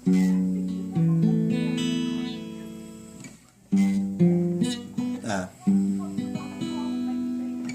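Washburn guitar strummed chord after chord, each ringing out and fading before the next, the guitar in tune after a truss-rod recalibration.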